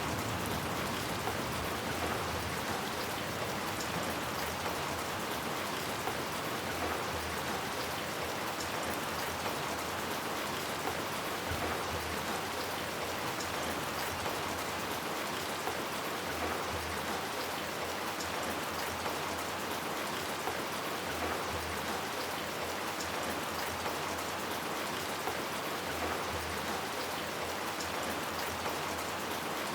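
Steady rain falling: an even, unbroken hiss with scattered sharp drop ticks throughout.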